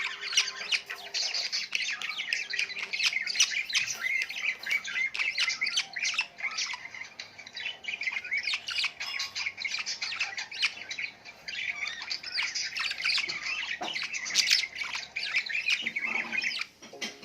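A flock of small birds chirping and squawking all at once in a dense, unbroken chatter of quick high calls.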